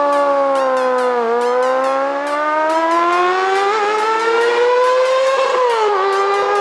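Kawasaki Ninja ZX-25R's 250 cc inline-four with a Yoshimura racing exhaust, running at high revs under load. The high engine note climbs slowly and steadily, dipping briefly about a second in and again near the end.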